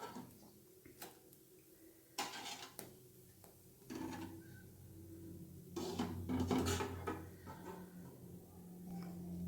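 A metal spoon scraping and knocking against a metal kadai, lifting fried pieces out of the hot oil, in a few separate scrapes and clinks, the busiest about six seconds in.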